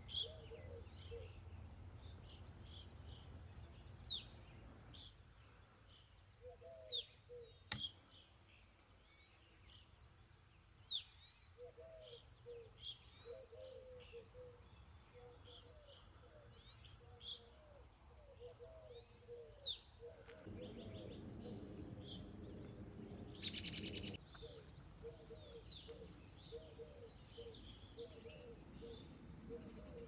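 Evening grosbeaks calling: a run of short, clear, downward-slurred chirps, with lower notes repeating underneath. A sharp click comes about a quarter of the way in, and a brief harsh rasp a little past two-thirds of the way through is the loudest sound.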